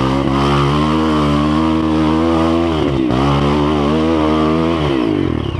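Honda CRF 230 dirt bike's single-cylinder four-stroke engine running under the rider at steady revs. The revs dip briefly about three seconds in and fall away near the end.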